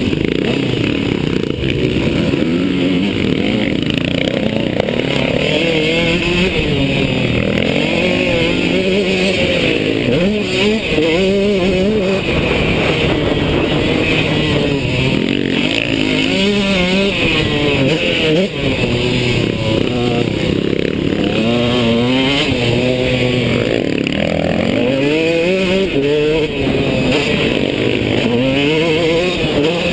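KTM two-stroke motocross bike engine revving up and down again and again as the rider works the throttle and gears through the track.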